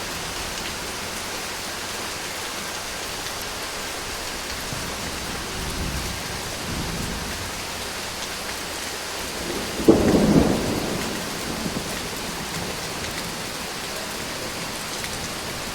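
Steady rain falling, an even hiss. About ten seconds in comes a short low rumble of thunder, the loudest sound, which fades over a second or two.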